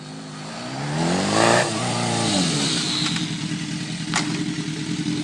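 Motorcycle engine accelerating, its pitch climbing to a peak about a second and a half in, then dropping back and holding steady. A sharp click about four seconds in.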